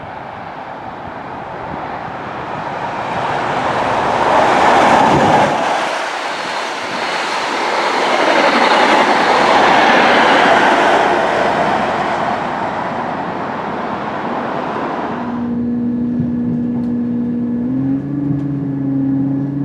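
A train passing at speed, building to its loudest about five seconds in and staying loud until it cuts off suddenly about fifteen seconds in. After that a steadier engine hum with a few held tones takes over, stepping up slightly in pitch near the end.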